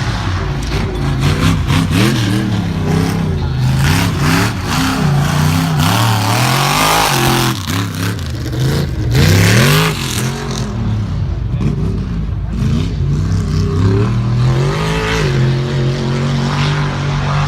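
Off-road truck's engine revving hard, its pitch rising and falling again and again, then holding steadier near the end.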